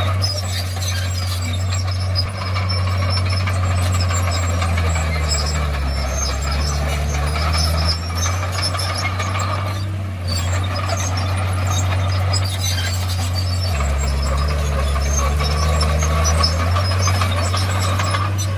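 Komatsu D51PX bulldozer's diesel engine working, its pitch dropping and recovering twice as it comes under load, with squeaks from the running gear over it.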